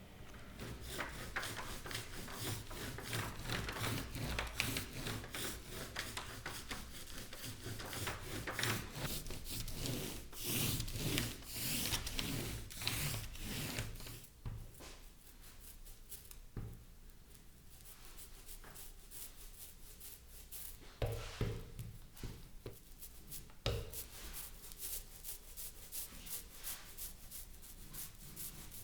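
Hand strokes rubbing or sanding over the wood of a speaker cabinet, a quick run of back-and-forth strokes for about the first half, then quieter with scattered strokes and a few knocks.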